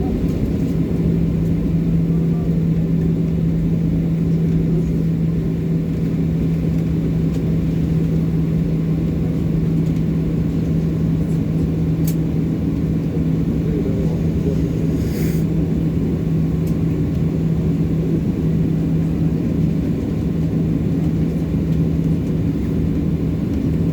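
Cabin rumble of a Boeing 737-800 taxiing after landing, its CFM56 engines at idle, with a steady low hum throughout. A short hiss sounds about fifteen seconds in.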